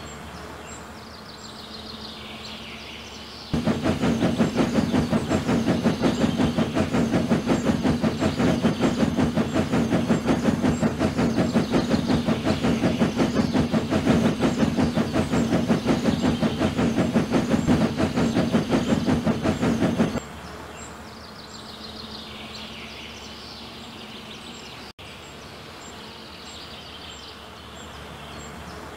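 Train running on rails, a loud rapid rhythmic clatter and rumble that starts abruptly about three and a half seconds in and cuts off abruptly about twenty seconds in. Before and after it, a quieter background of faint repeated chirping.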